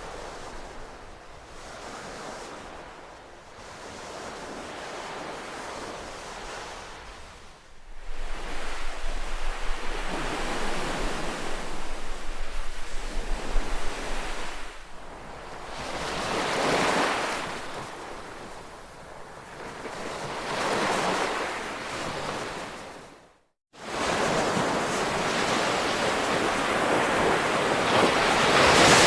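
Ocean surf: waves washing in as a rushing hiss that swells and fades every few seconds, stepping up suddenly in loudness about eight seconds in. Near the end the sound drops out to silence for a split second, then comes back.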